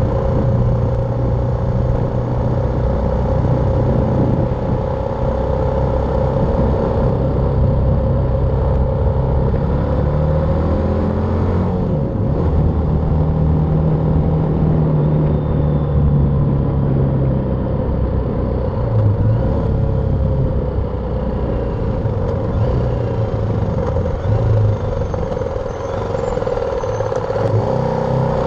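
BMW G310R's single-cylinder engine running as the motorcycle is ridden, its revs stepping up and down a few times, under a steady rush of road noise.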